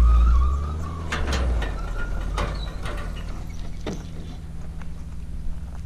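Car engine running, loud at first and settling to a lower idle about a second and a half in, while a few sharp metal clicks and clanks come from the boat trailer during the launch.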